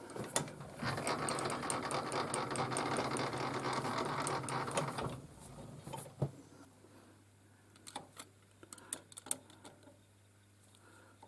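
Small metal lathe running with a fast, even mechanical clatter for about four seconds, then stopping; a few light metallic clicks follow near the end.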